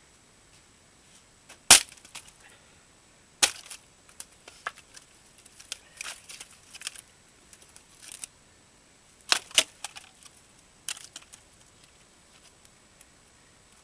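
Axe blows splitting dried larch firewood: sharp, loud cracks, the loudest about two seconds in, another a couple of seconds later, a quick pair about halfway, and one more shortly after. Lighter knocks and clatter of wood come between the blows.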